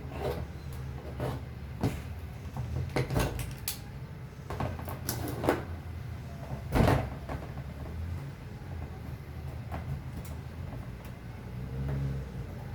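Bamboo parts being handled and fitted by hand: scattered wooden knocks and short scraping strokes, the loudest nearly seven seconds in, over a steady low rumble.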